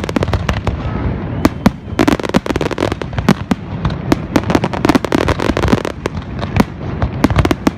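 Fireworks display: a rapid, irregular barrage of aerial shell bursts, several bangs a second, over continuous low rumbling and crackle.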